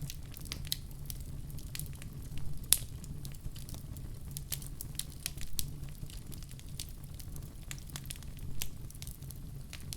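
Wood fire crackling in a fireplace: irregular sharp pops and snaps over a steady low rumble, with one louder pop a little under three seconds in.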